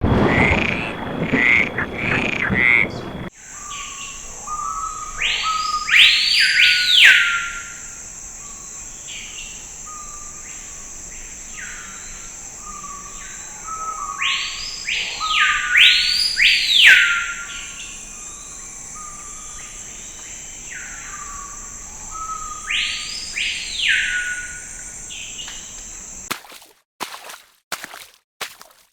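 Outdoor nature ambience: a steady high-pitched insect drone with repeated rising-and-falling animal calls, mostly in pairs. It opens with a few seconds of loud rushing noise, and the drone cuts off suddenly near the end, giving way to a run of sharp clicks.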